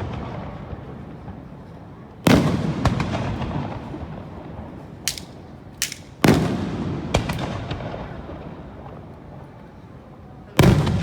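Aerial fireworks shells bursting: three big booms, each followed by a long rolling echo that fades over a few seconds, with a few smaller sharp cracks in between.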